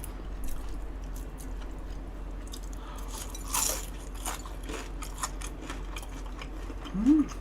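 Biting into and chewing a large deep-fried shrimp in thin batter, with crisp crunches, the loudest about three and a half seconds in. A short hum from the eater comes near the end.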